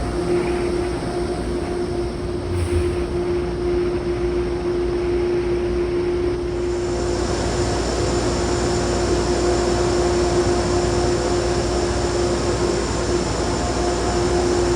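Train running with a steady mechanical drone and a constant humming tone; a hiss grows about six and a half seconds in.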